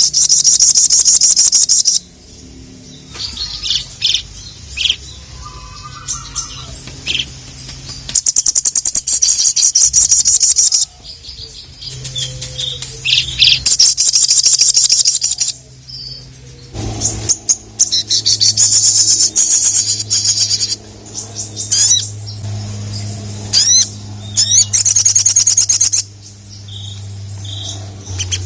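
Sogon (sogok ontong) songbird singing in long, fast runs of high, rapidly repeated notes, each run lasting a few seconds with short pauses between. A faint low hum runs underneath.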